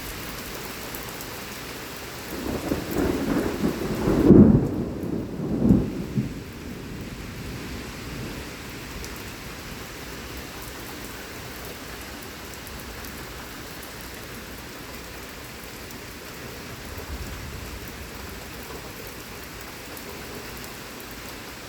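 Heavy thunderstorm rain falling steadily, with a loud rolling peal of thunder about three to six seconds in, loudest near four seconds.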